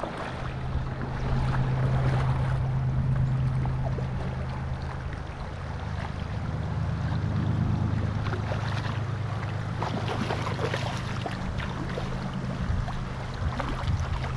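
Fast river current rushing steadily, with wind buffeting the microphone.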